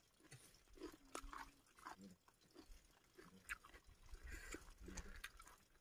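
Faint chewing of a mouthful of rice and fish, with scattered soft mouth clicks.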